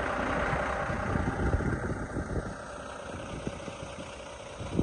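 International 9900 semi truck's diesel engine idling steadily, with irregular low rumbling knocks over it.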